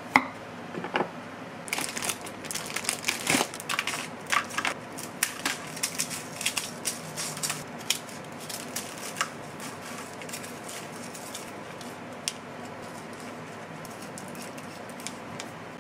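Kitchen prep handling: a rapid string of small crackling clicks and knocks, like crinkling or crushing, that thins out after about nine seconds into a steady low background with the odd tick.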